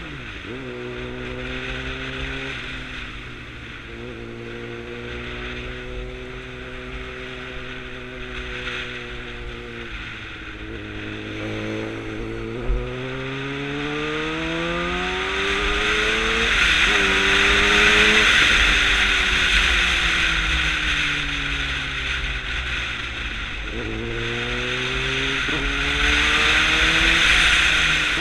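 2009 Suzuki GSX-R600's inline-four engine under way, its pitch climbing through the revs and dropping sharply at gear changes, then falling away and rising again. Strong wind rush swells as the bike picks up speed.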